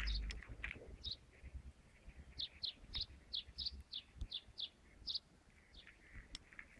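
Small bird chirping: a few scattered high chirps, then a quick run of about ten short notes, roughly four a second, in the middle, and a couple more near the end. A low rumble sits under the start.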